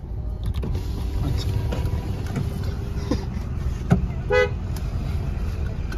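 Tuned Volkswagen Jetta idling, heard from inside the cabin as a steady low rumble. A sharp click comes just before four seconds in, then a short car-horn toot.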